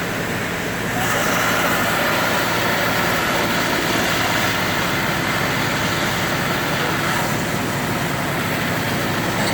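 Steady engine noise under a broad rushing hiss, louder from about a second in.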